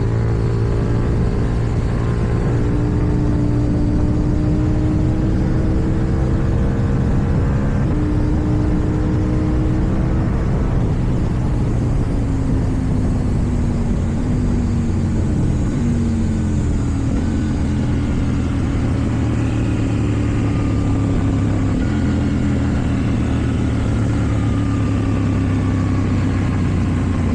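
KTM Duke 790's parallel-twin engine running under way, its pitch drifting slowly up and down with the throttle.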